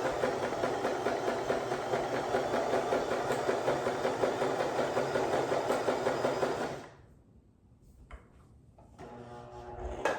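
Janome Pink Sorbet sewing machine running steadily with a fast stitching rhythm as it sews a straight stitch, then stopping abruptly about seven seconds in; a few light clicks follow.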